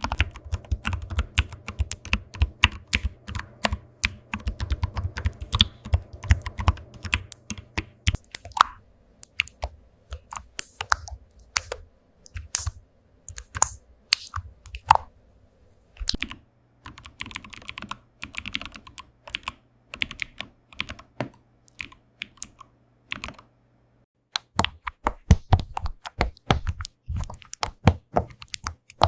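Keyboard typing: a fast, irregular run of key clicks. For about the first eight seconds the strokes are deeper and heavier, then lighter and sharper, with a short pause about four-fifths of the way through before the typing picks up again.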